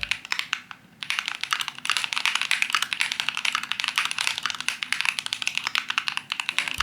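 Rapid, dense clicking with a brief lull about a second in.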